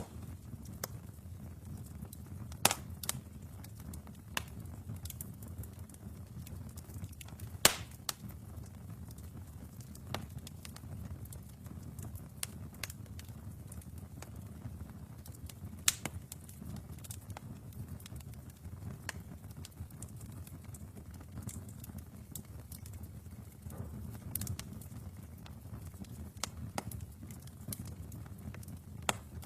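Wood fire in a fireplace crackling: irregular sharp pops and snaps over a low steady rumble of the flames, with a few pops much louder than the rest.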